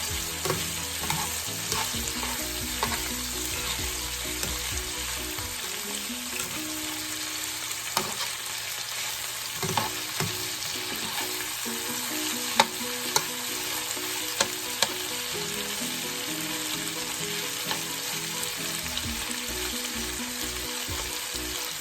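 Seasoned chicken strips sizzling steadily in hot oil in a cooking pot as they are stirred and browned, with a few sharp clicks of a utensil against the pot partway through.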